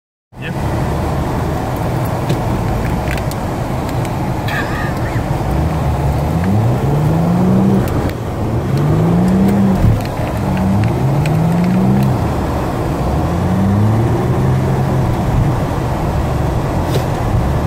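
Mitsubishi Eclipse engine heard from inside the cabin, running under load and revving up again and again in rising sweeps from about six seconds in while the car is drifted, over steady road noise.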